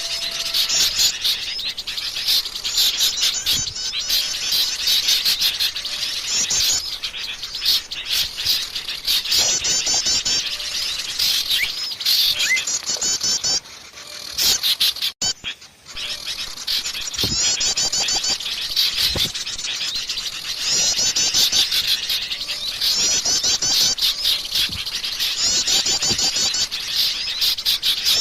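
Bird-lure recording of many small birds calling noisily at once: dense high chirps, squeaky calls and rapid repeated trills, with a brief drop in level near the middle.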